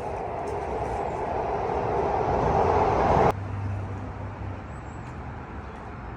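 Road and engine noise of a moving car, heard from inside, growing louder for about three seconds and then cutting off abruptly, leaving a quieter steady low hum.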